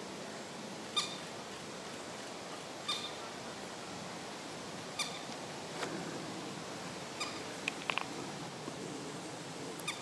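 A bird repeating a short, high call about every two seconds, five times, over a steady faint background hiss. A few quick clicks come about three-quarters of the way through.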